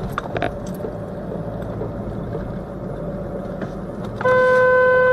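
Steady rumble of a car driving in traffic, then about four seconds in a car horn starts, a loud, steady single-pitched blast held on.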